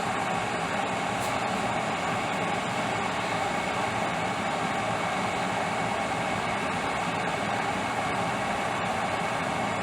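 MegaChef electric glass kettle at the boil, a steady rushing, bubbling noise, running a vinegar descaling cycle to clear hard-water deposits.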